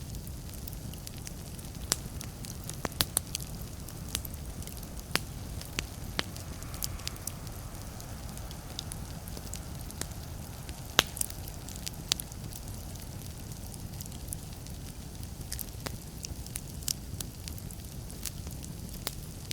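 Fireplace fire crackling: irregular sharp pops and snaps over a low, steady rumble of flames, with one louder pop about halfway through.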